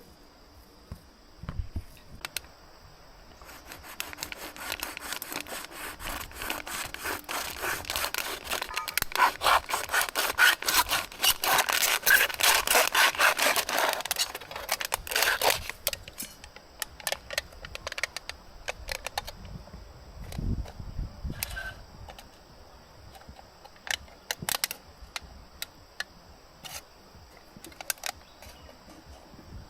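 Rapid back-and-forth rasping strokes on wood, like sawing or scraping, building up and stopping about sixteen seconds in. After that come scattered clicks and knocks.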